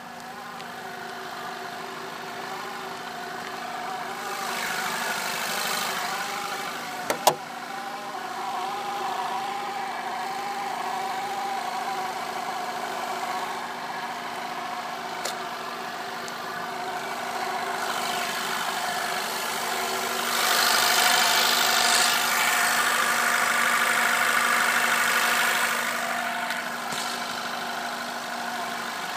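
Volkswagen 2.0T TSI engine idling with a steady hum and a wavering, warbling tone over it. A sharp click comes about seven seconds in, and a louder hiss lasts several seconds near the end. This is the intermittent odd noise that many take for the sign of a dying water pump.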